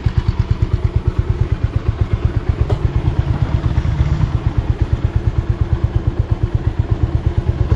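Motorcycle engine idling with an even, steady pulsing of about eight beats a second.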